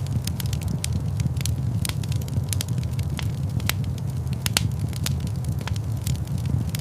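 Wood fire burning in a large fireplace: a steady low rumble of flames with frequent irregular sharp crackles and pops.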